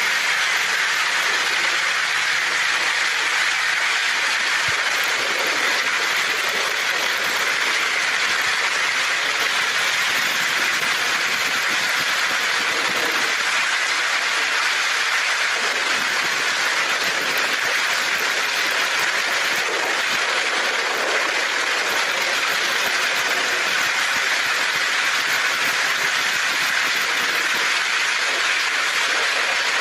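Heavy rain falling steadily on a tin roof, a dense even hiss with no break or single strike.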